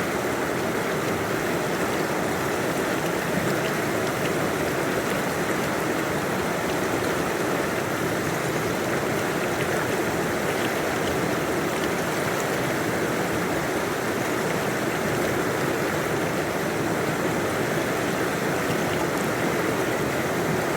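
Mountain river or stream rushing and burbling steadily over rocks.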